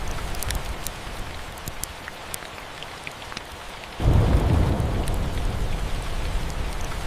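Steady rain with scattered faint crackles, and a roll of thunder that breaks in suddenly about four seconds in as a deep rumble, then slowly fades.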